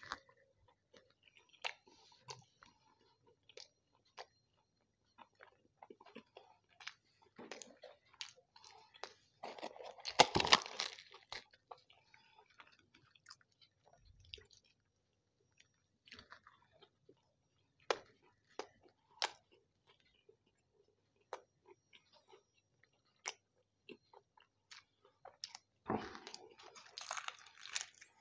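Close-miked eating sounds: a person chewing and crunching food, with scattered wet clicks and smacks. A louder crunching burst comes about ten seconds in, and puri bread is torn by hand near the end.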